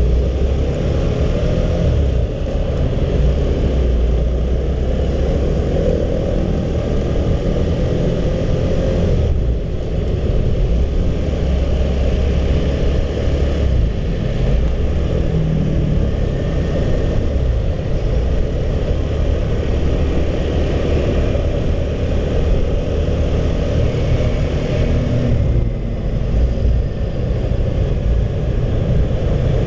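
Honda CB150R single-cylinder motorcycle underway, engine running steadily, with heavy wind rumble on the microphone and road noise.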